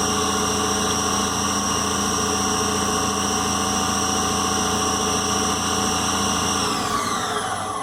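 Hardinge Omniturn CNC lathe spindle on its new direct-drive motor and belt, running at 3000 RPM with a steady high whine. About seven seconds in, the pitch falls as the spindle slows down.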